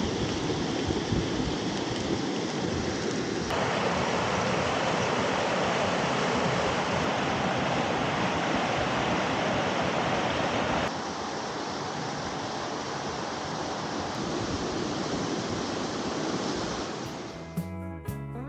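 Steady rush of river water flowing over rocks, changing abruptly twice and louder in the middle stretch. Strummed guitar music comes in near the end.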